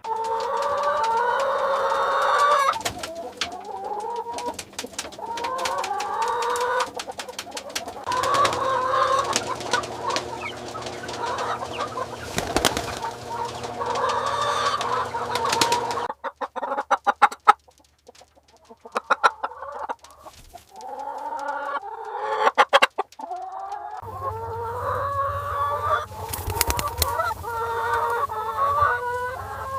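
A flock of chickens clucking, many birds calling over one another. The calls briefly die down a little past halfway, then pick up again.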